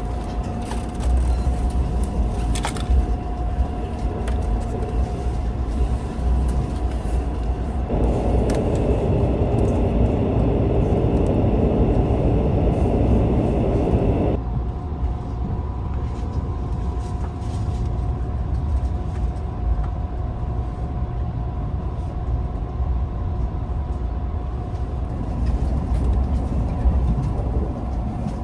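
Steady low rumble of a running vehicle, with a faint constant hum. A louder rushing noise runs from about 8 s to about 14 s.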